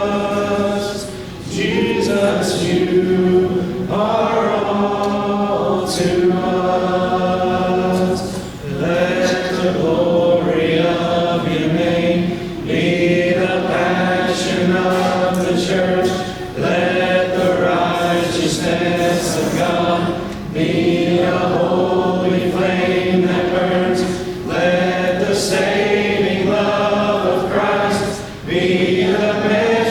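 Church congregation singing a hymn a cappella, many voices together in sustained phrases of about four seconds with brief breaks for breath between them.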